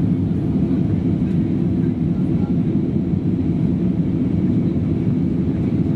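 Airbus A321 cabin noise heard from a rear seat during the climb: a steady, loud low rumble of the engines at climb power and the airflow over the fuselage.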